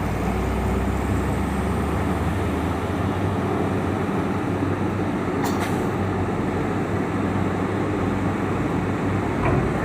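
Heavy diesel truck engines running steadily as vehicles drive off a ferry during unloading, with one short sharp click about five and a half seconds in.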